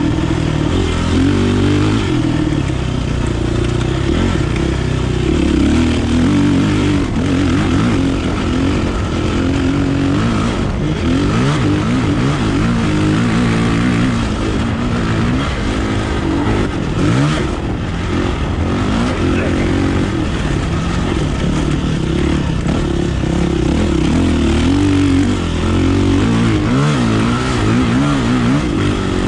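Kawasaki KLX450R dirt bike's single-cylinder four-stroke engine being ridden, its revs rising and falling constantly as the throttle opens and closes.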